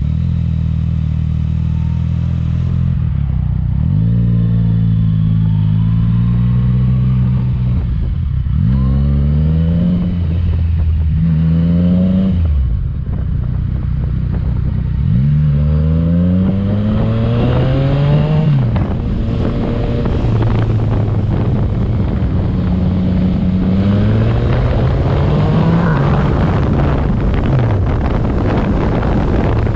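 Yamaha MT-09's three-cylinder engine through a Yoshimura exhaust, its note repeatedly climbing in pitch and then dropping sharply, several times over.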